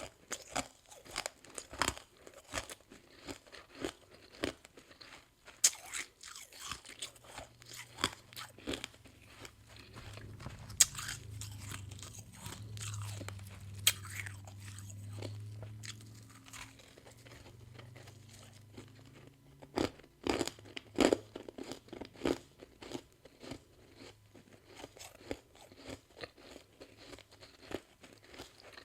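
Mouth biting and chewing freezer frost close up: irregular crisp crunches, with a low steady hum underneath through the middle.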